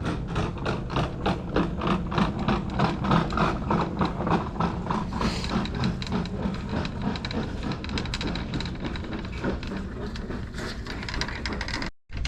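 Heavy rain falling, a steady hiss, with quick regular knocks about four a second through the first half, like hurried footsteps.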